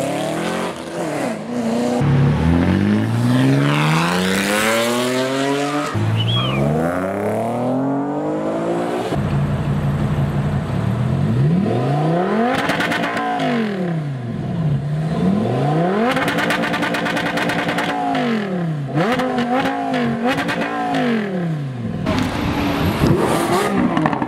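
Car engine accelerating hard, its pitch climbing through two gears with a sudden drop at the shift, then revving up and down several times, once held high for a couple of seconds.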